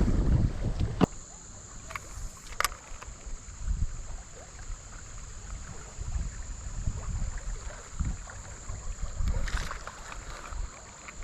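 Movement and handling noise in a kayak: uneven low rumbling with a few sharp knocks about two and two and a half seconds in, and a steady high thin whine that starts about a second in.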